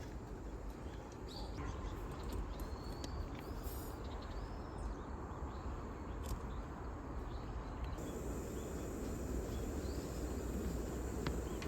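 Outdoor ambience: a low, steady rumble with faint, scattered bird chirps and a few light clicks.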